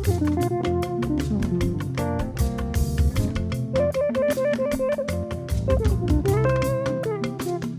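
Instrumental break in a Yoruba gospel praise song: a guitar melody over bass guitar and a steady, busy drum-kit beat, with no singing.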